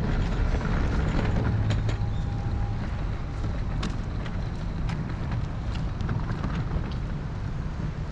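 Street traffic noise heard from a moving bicycle, with wind buffeting the microphone and a few scattered light ticks.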